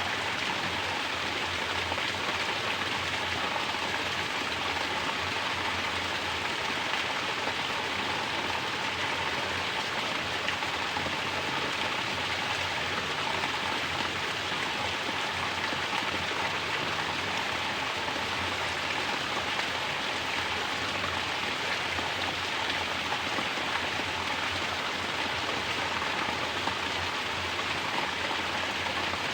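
Mountain water pouring down from a natural shower and splashing steadily: an even, unbroken hiss of falling water.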